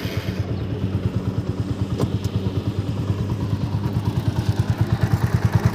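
TVS Apache RTR 200 4V's single-cylinder engine running with a steady, fast pulsing beat that grows a little louder near the end. The bike's worn chain and sprocket set is making noise, which the owner puts down mainly to the front sprocket.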